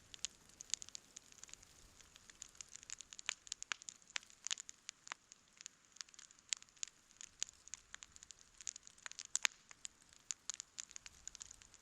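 Campfire crackling: a steady run of sharp, irregular pops and snaps over a faint hiss, with one louder pop about nine seconds in.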